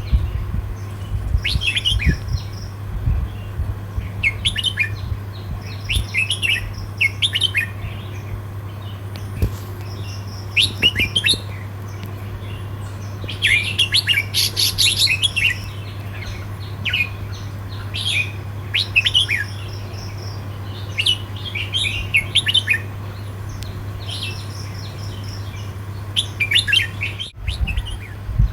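Red-whiskered bulbul singing short phrases of quick whistled notes, a new phrase every second or two, over a steady low hum.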